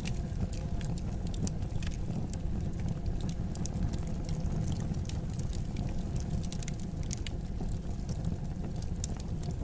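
Wood fire burning in a fireplace: a steady low rumble of flame with frequent, irregular sharp crackles and pops.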